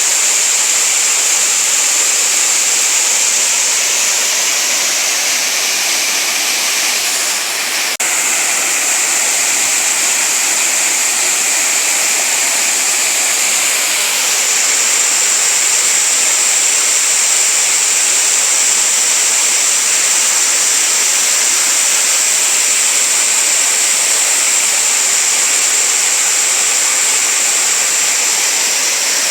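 Waterfall water falling and running over rocks: a steady, loud hiss with a brief dip about eight seconds in.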